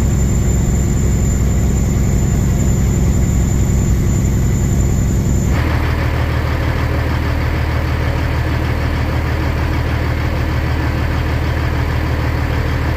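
Semi-truck diesel engine running steadily. Its tone changes abruptly a little over five seconds in.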